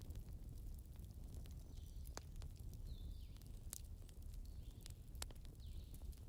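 Campfire crackling: scattered sharp pops and snaps of burning wood over a low steady rumble.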